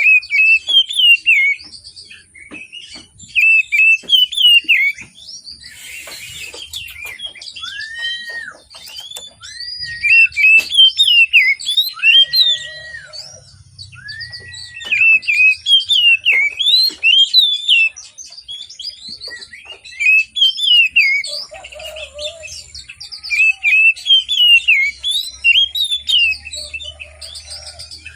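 Oriental magpie-robin (kacer) in full song: loud bouts of rapid, varied warbling phrases, each a couple of seconds long with short pauses between, and a few clear arched whistles in the middle. A brief rustling hiss about six seconds in.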